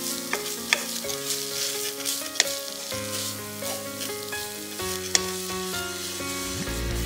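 Shredded chicken filling with raisins sizzling in a nonstick frying pan as a wooden spatula stirs and scrapes it, with three sharp taps of the spatula on the pan.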